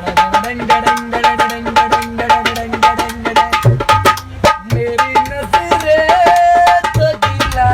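Tabla played in quick strokes, the right-hand drum's ringing tone recurring. A held melody line slides and sustains above the drumming.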